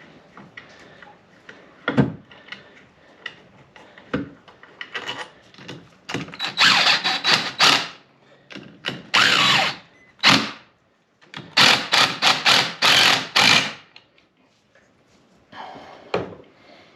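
Handheld power tool running in several short bursts, running down the bolts on the differential's bearing caps, after a few knocks of metal parts being handled.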